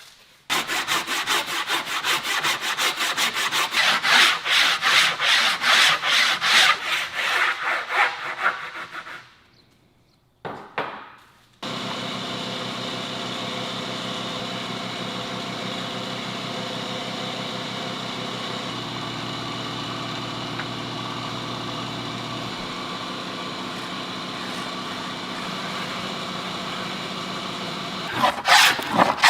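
A hand tool works wood with rapid, even back-and-forth strokes, like sawing or rasping, then stops. A steady machine sound runs at a fixed pitch for most of the rest, and the hand strokes start again near the end.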